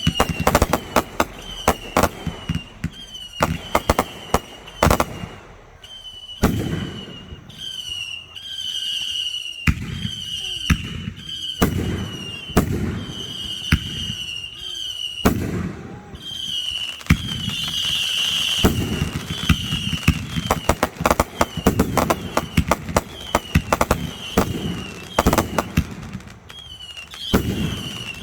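Aerial fireworks going off in quick succession: sharp bangs and crackling reports, often in rapid clusters, with rumbling stretches where bursts overlap. A high chirp repeats about once a second behind them.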